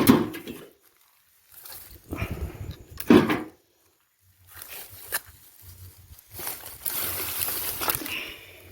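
Firewood being loaded onto a cart: several knocks of logs landing, the loudest right at the start and about three seconds in, with rustling and shuffling between them.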